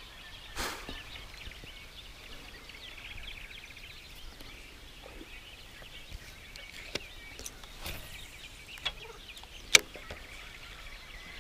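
Birds calling faintly, with quick chirps and a short trill, and a few sharp clicks, the loudest near the end.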